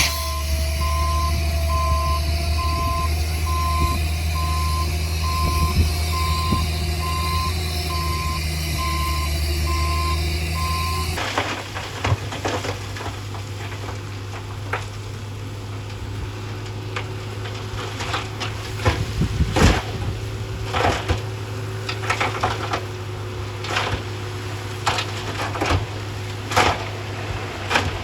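Heavy earthmoving machine reversing: a steady diesel engine under a backup alarm beeping about twice a second. About eleven seconds in the beeping stops abruptly and a diesel engine runs on under a string of sharp cracks and knocks.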